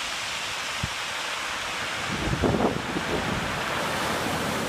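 Steady rush of blizzard wind and breaking surf, with gusts buffeting the microphone in low thumps, the strongest about two and a half seconds in.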